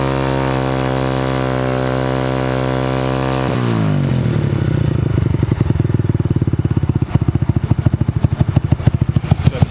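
Single-cylinder four-stroke engine of a Honda CG125 motorcycle running through a newly fitted aftermarket sports exhaust: held at steady high revs, then the revs drop about three and a half seconds in and it settles to an idle with distinct, evenly spaced exhaust pulses.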